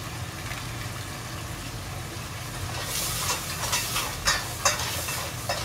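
Snails and vegetables sizzling in a stainless steel pot on an induction cooktop, over a steady low hum. From about halfway through, a spatula stirs the food, with a run of quick scrapes against the pot.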